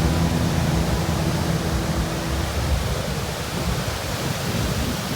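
Steady rush of sea surf breaking on a beach. A held musical chord fades out about halfway through.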